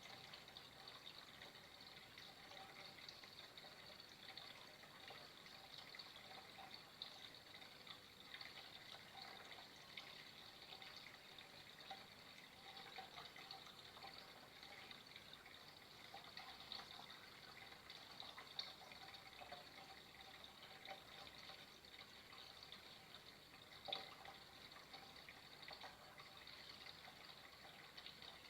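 Flowing water trickling steadily and faintly, with small bubbling flicks all through and one sharper drip-like tick near the end.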